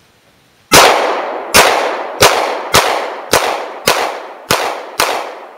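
Eight 9mm gunshots fired in fairly quick, uneven succession, roughly every half second to second, each shot trailing off in a long echo.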